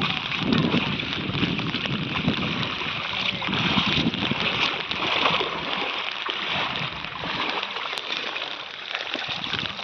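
Floodwater splashing and sloshing, a steady rushing wash with irregular splashes that is heavier in the first half.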